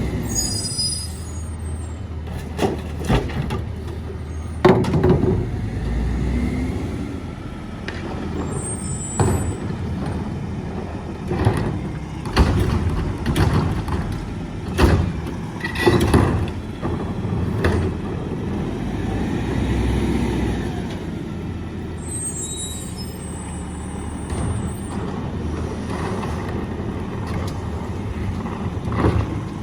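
Mack MRU rear-load garbage truck with a McNeilus body at work: its diesel engine runs steadily under a string of sharp clanks and bangs, with short air hisses near the start, about a third of the way in, and again past two-thirds.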